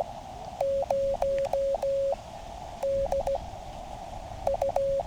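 Morse code (CW) from a QCX mini transceiver's speaker: a steady mid-pitched tone keyed in dashes and dots in three groups, over the hiss of the receiver's narrow CW filter. It is a calling station sending its callsign.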